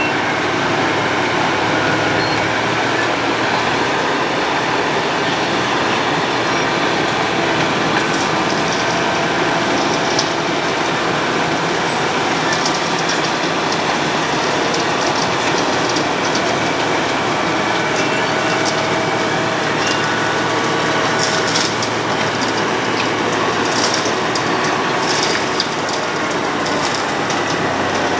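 Road planer milling asphalt: a steady, loud grinding rattle from the cutting drum, with sharp ticks and clatters that come more often over the last several seconds.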